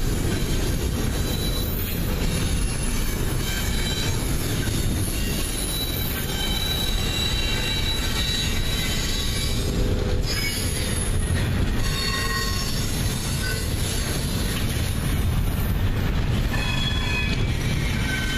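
Double-stack intermodal well cars rolling past, wheels rumbling steadily on the rail, with brief high-pitched wheel squeals now and then.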